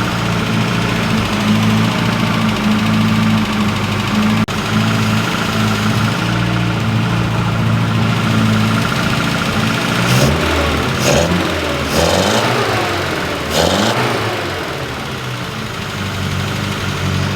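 1970 MG Midget's 1275 four-cylinder engine idling steadily while its carburetors are being adjusted. About ten seconds in, the engine speed rises and falls several times, with a few sharp clicks, then settles back to a steady idle.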